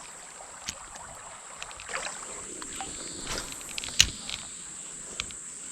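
Steady high-pitched drone of insects, crickets or cicadas, with scattered splashes and knocks of water and gear as someone wades the creek; the sharpest knock comes about four seconds in.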